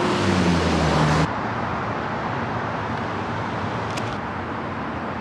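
Steady road traffic noise, with a low engine tone over the first second or so that cuts off abruptly.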